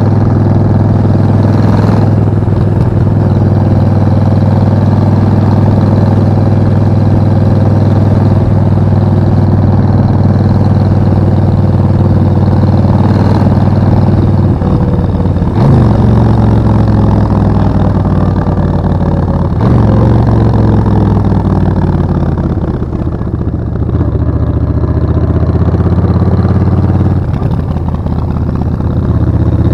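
Suzuki VS1400 Intruder's V-twin engine running under way at a steady note, with two sharp drops in pitch near the middle as gears change. Its note then falls away as it slows, and rises again near the end as it pulls away.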